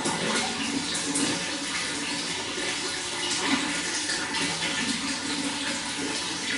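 Running water, a steady splashing and gurgling flow.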